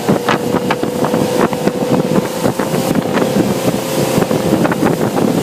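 Motorboat under way: a steady engine tone under heavy wind buffeting on the microphone, with short splashes and knocks from the hull on the water.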